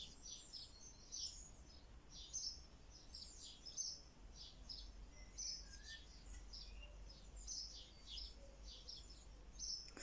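Birds chirping faintly: short, high chirps repeating a couple of times a second, over a low steady rumble.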